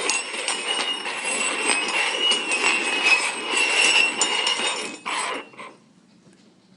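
Cups sliding and scraping across a tabletop, with many small knocks, for about five seconds before stopping.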